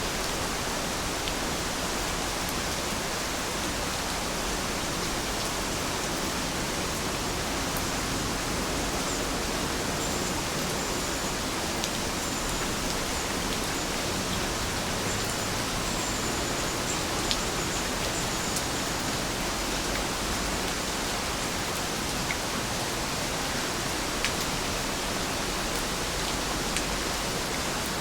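Steady rainfall, an even hiss with scattered faint ticks of individual drops.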